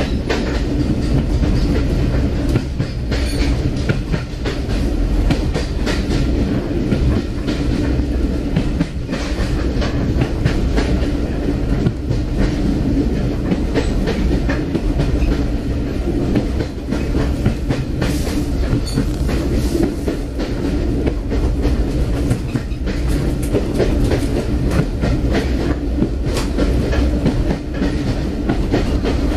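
Railway carriage running along at speed: a steady low rumble with the clickety-clack of its wheels passing over the rail joints.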